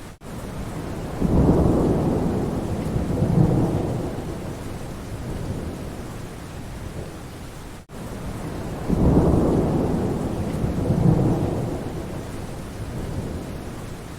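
Steady rain with a low roll of thunder twice, about a second in and again about nine seconds in, each swelling and fading over a few seconds. The sound briefly cuts out near the start and about eight seconds in, as the same short recording repeats.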